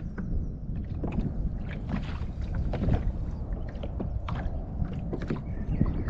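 Low wind rumble on the microphone with many small knocks and clicks scattered throughout, from fishing gear being handled aboard a small plastic boat.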